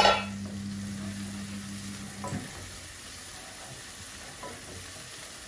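Masala spice paste sizzling as it fries slowly in a pan, the bhuna stage of a prawn curry, opening with a loud, ringing metallic clang. A steady low hum behind it cuts off about two seconds in.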